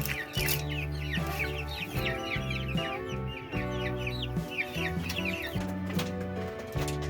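A flock of chickens making many quick high chirps, continuous throughout, over background music with sustained low notes that change about once a second.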